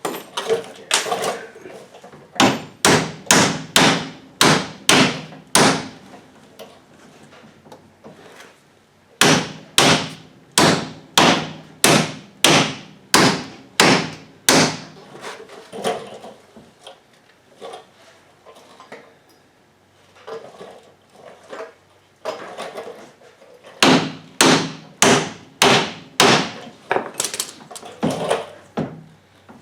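Hammer blows on the steel parts of a VW front beam's link and king pin assembly, struck in three runs of steady blows about two a second, with lighter knocks between the runs.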